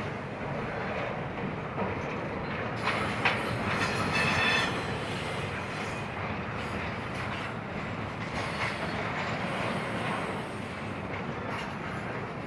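Intermodal freight train's cars rolling past on the rails: a steady wheel-on-rail rumble with a few clicks, and a brief high wheel squeal about three to four seconds in.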